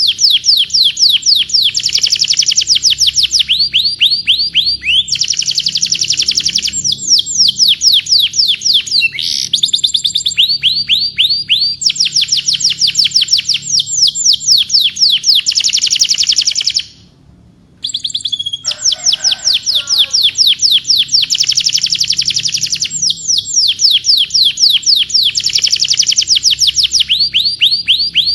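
Domestic canary singing: long, rapid trills of repeated high downward-sweeping notes, phrase after phrase, with a brief break about seventeen seconds in.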